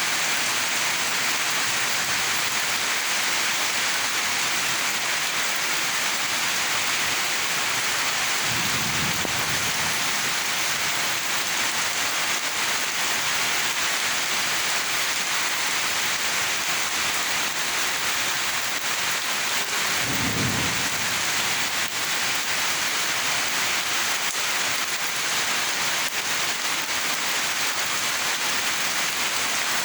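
Steady rain falling, an even hiss. Two brief low rumbles of thunder, about nine seconds and twenty seconds in.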